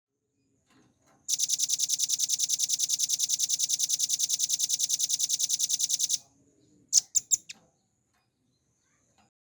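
Velvet-fronted nuthatch (rambatan paruh merah) singing a long, fast, even trill of high notes, about a dozen a second for some five seconds. Less than a second later come four short, sharp notes.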